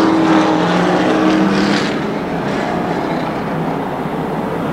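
Race trucks' engines running around an oval track at caution pace, one clear engine note at first that fades about a second and a half in, leaving the mixed sound of several engines.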